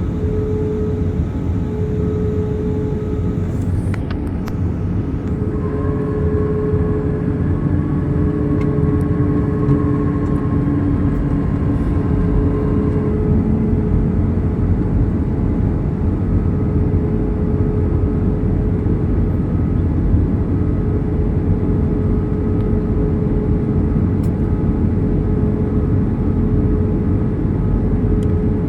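Steady pink noise: a constant, even rushing hiss, heaviest in the low range, with a faint steady hum-like tone running through it.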